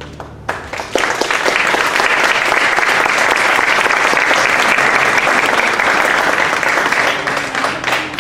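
Audience applauding: the clapping starts about half a second in as the last held chord of the music dies away, holds steady, and thins out near the end.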